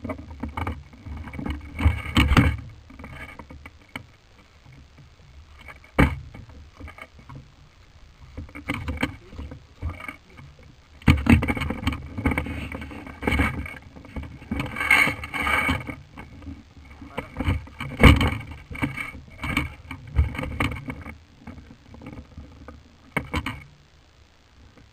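Irregular rustling and bumping of clothing and gear close to the microphone as a player moves, with a few sharp knocks.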